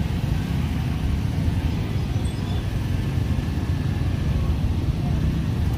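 Scooter and motorcycle engines running together in slow, dense traffic: a steady low rumble.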